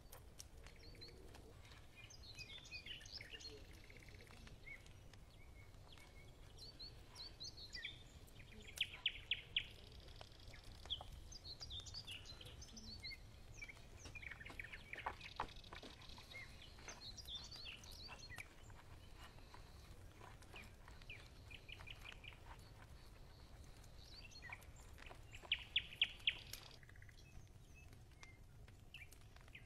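Birds chirping and singing, with two quick runs of rapid notes, about nine seconds in and again near the end, the loudest moments, over a steady low hum.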